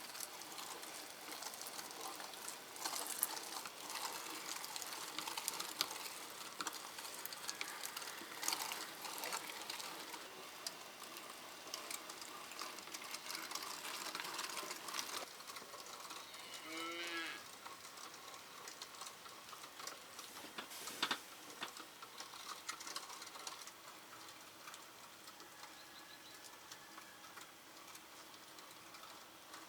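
Continual clicking and rustling of food preparation. A little past halfway in, a farm animal calls once, briefly.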